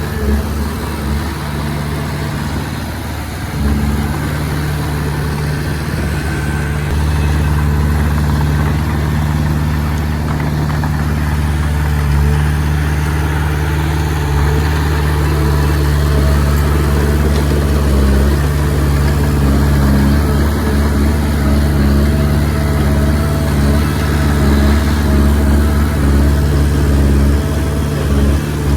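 Diesel engine of a Komatsu D20P crawler bulldozer running steadily, growing a little louder about 4 seconds in and again about 7 seconds in.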